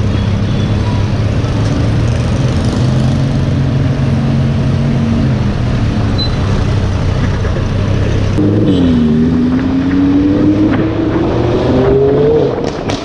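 Lamborghini Huracán's V10 with a Fi aftermarket exhaust running steadily at low revs, then about eight seconds in accelerating hard, its pitch rising steadily for about four seconds before the sound drops away near the end.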